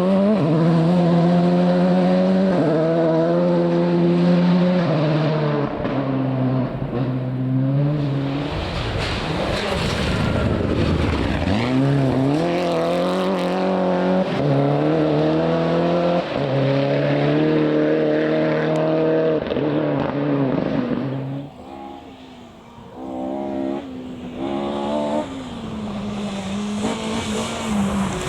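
Rally car engine driven hard, its pitch climbing and then dropping at each gear change. There is a burst of loose-surface tyre noise about ten seconds in. Near three-quarters of the way through the engine sound falls away briefly, then picks up again.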